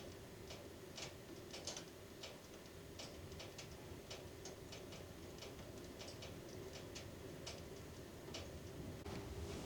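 Irregular light clicks and ticks, a few a second, over a low steady hum.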